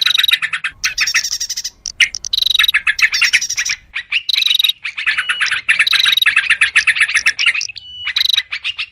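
A dense mix of noisy, agitated chattering calls from yellow-vented bulbuls and prinias, rapid runs of repeated notes overlapping with short pauses between bursts: a bird-lure call track meant to draw small wild birds in.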